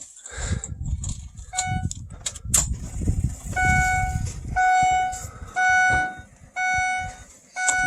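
Ford E-450 dashboard warning chime beeping steadily about once a second, a clear pitched tone, as the key is turned on before a cold start of the 6.0 diesel. Low rustling and knocks of someone moving around in the cab come underneath.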